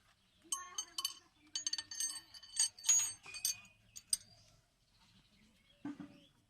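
Metal tools and engine parts clinking against each other, a quick series of sharp clinks with short ringing tones that stops after about four seconds.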